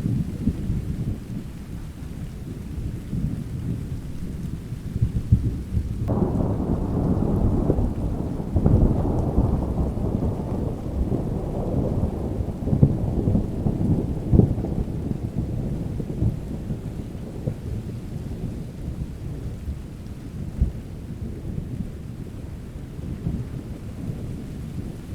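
Thunderstorm with rain falling and a low rumble of thunder throughout. About six seconds in, a louder roll of thunder breaks in suddenly, swells, and dies away over the next fifteen seconds or so.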